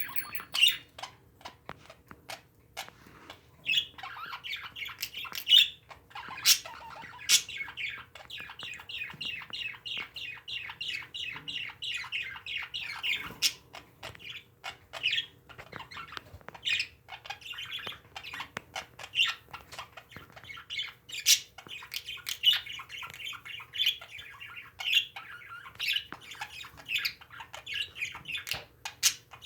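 Pet parakeets chattering and chirping in a continuous warble, broken by frequent sharp squawks.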